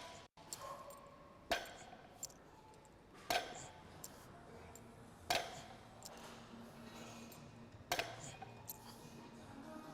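Loaded barbell clinking as its plates touch down between deadlift reps: four sharp metallic strikes about two seconds apart, with a few lighter clicks between.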